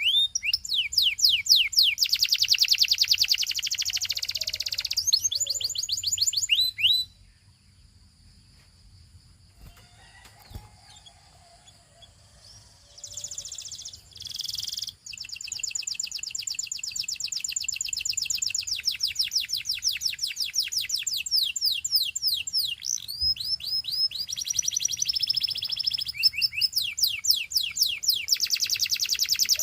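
Gloster canary singing, long runs of fast trilled and rolling high notes. The song stops for about six seconds a quarter of the way in, then starts again with fast repeated notes.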